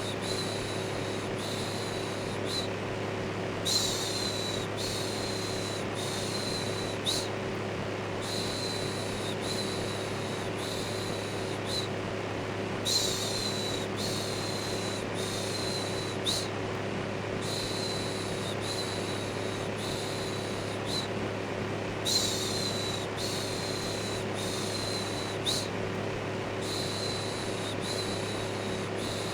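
Electric fan running steadily with a low motor hum, overlaid with looping 'shhh' shushing. The shushes come in short repeated strokes, a stronger one about every nine seconds followed by several softer ones.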